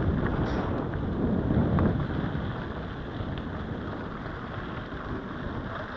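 Wind buffeting the microphone of a camera on a moving mountain bike, over the rumble of tyres on gravel jeep track, louder in the first two seconds, with a few faint clicks.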